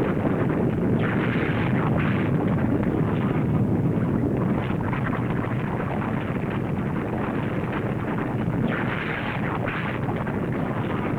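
Continuous low rumbling of a film volcanic-eruption sound effect, with brief brighter hissing swells about a second in and again near the end.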